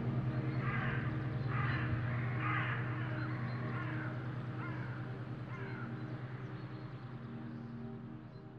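Birds calling over a steady low car-engine drone: three loud, rough calls in the first three seconds, then two fainter, shorter calls, as the whole sound slowly fades out.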